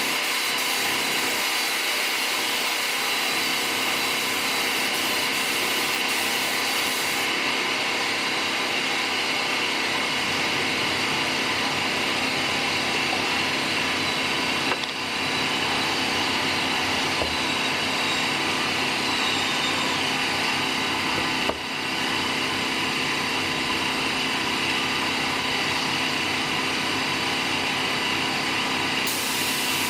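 A power tool or shop machine running steadily with a whine and hiss, dropping off briefly twice midway.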